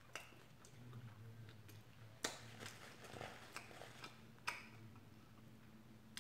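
A person chewing food softly, with scattered sharp mouth clicks, two louder ones about two and four and a half seconds in.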